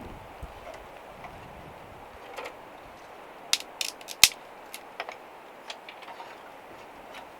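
Irregular sharp clicks and knocks, about seven of them scattered over a few seconds, the loudest a little after the middle, over a faint steady hiss.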